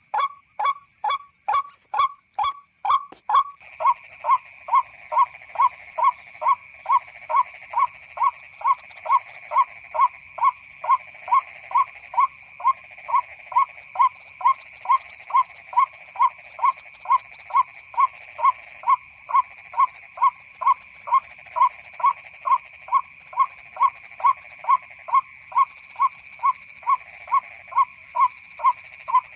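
White-breasted waterhen lure call (the 'ruak' call) repeating evenly about twice a second, played from an MP3 player to draw the birds in. About three and a half seconds in, a steady high-pitched hum joins underneath.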